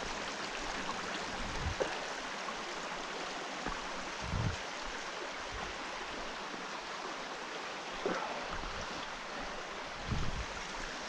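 Creek water rushing steadily over rocks, with a few soft, dull thumps scattered through it.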